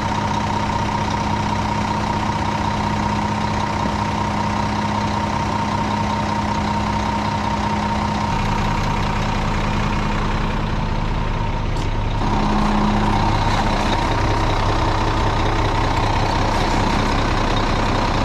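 Heavy truck diesel engine running steadily. About twelve seconds in, its note shifts and gets slightly louder.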